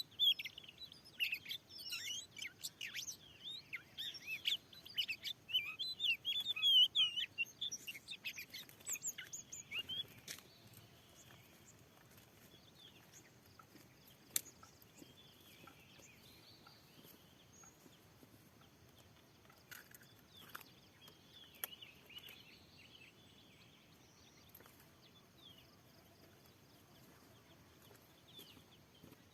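Oriental magpie-robin (kacer) singing: a fast, loud run of varied whistles and chirps for about ten seconds, then only a few scattered calls.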